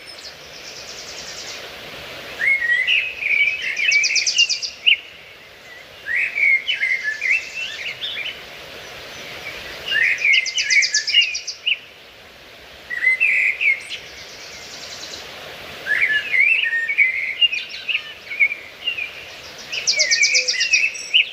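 Small songbirds singing: phrases of quick, tumbling chirps with fast high trills, repeated every few seconds over a steady background hiss.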